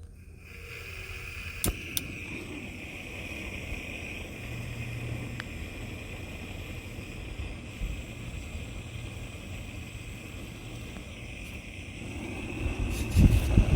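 Wind buffeting the microphone: a steady low rumble that grows into strong gusts near the end, over a steady high hiss, with a couple of sharp clicks about two seconds in.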